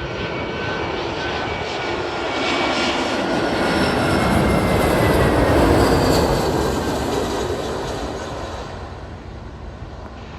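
Jet aircraft passing low overhead: the engine roar swells to a peak a little past the middle and then fades, with the engines' whine slowly falling in pitch as the aircraft goes by.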